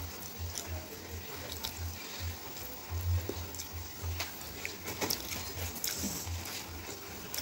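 A child eating fried chicken and rice by hand: chewing with soft low thumps about twice a second in an uneven rhythm, with scattered wet mouth clicks and fingers picking at the food.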